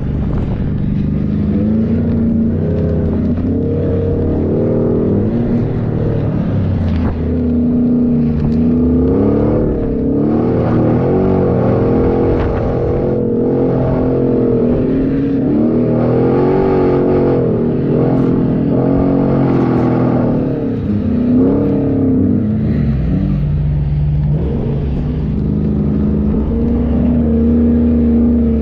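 A 4x4's engine running hard, its pitch rising and falling again and again as the revs change.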